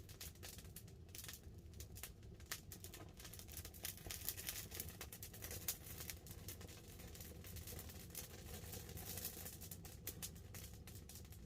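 Wood campfire crackling with many small irregular pops, over a steady soft patter of light rain on the tarp overhead.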